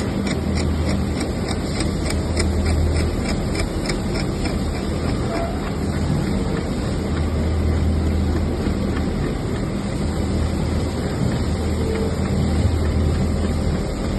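Automatic template sewing machine running as it stitches a logo: a steady mechanical clatter with a low motor hum that swells and fades in stretches, and faint regular clicks during the first few seconds.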